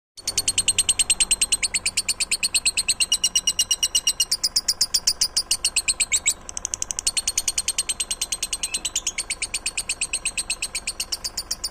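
A songbird giving a long, fast trill of rapidly repeated high notes, about eight a second, broken off briefly about six seconds in and then resumed.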